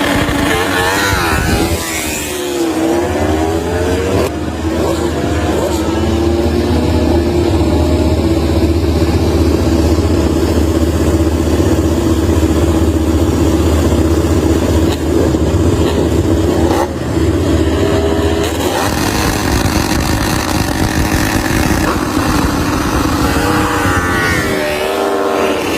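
MotoGP race motorcycle engines at high revs. The engine pitch sweeps down and back up in the first few seconds and again near the end. In between, an engine note holds steady.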